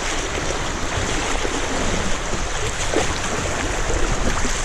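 River water rushing steadily over a small rapid, a continuous noise with a deep rumble under it.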